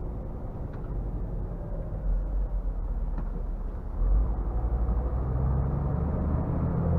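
Scania R450 truck's 13-litre inline six-cylinder diesel running as the truck drives, a steady low rumble with road noise. The engine gets louder about four seconds in.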